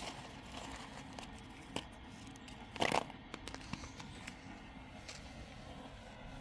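Light rustling and scattered small clicks, with one louder crackling rustle about three seconds in.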